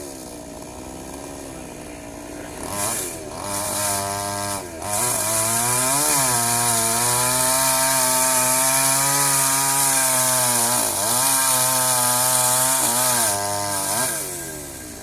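Two-stroke chainsaw idling, revved briefly twice, then held at high revs for about eight seconds as it cuts into a fallen tree, with one short dip, before dropping back to idle near the end.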